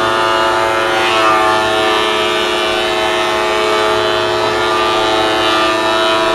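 Portable thickness planer running with a loud, steady whine.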